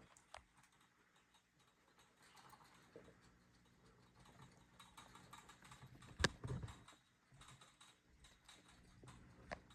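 Faint handling noise: scattered light taps and clicks, with one sharper knock about six seconds in and a smaller one near the end.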